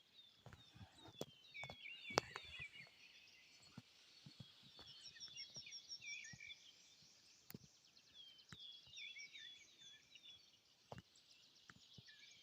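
Faint songbird chorus: several small birds singing repeated short downward chirps and a quick high trill, with scattered sharp clicks or snaps, the loudest about two seconds in.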